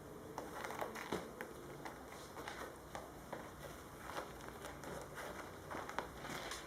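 Kittens' claws scratching and catching on fabric as they climb: irregular light scratches and rustles, several a second at times.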